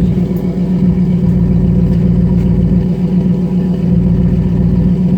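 Ford F-150's 5.0-litre V8 idling steadily through an MBRP 3-inch aluminized side-exit pre-axle exhaust, with a deep, even exhaust note.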